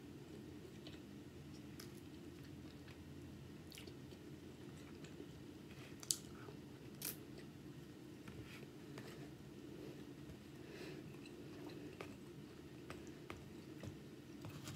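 A person chewing a mouthful of rice and chicken close to the microphone, with scattered small clicks of a metal spoon and fork on a plate; two sharper clicks come about 6 and 7 seconds in. A low steady hum runs underneath.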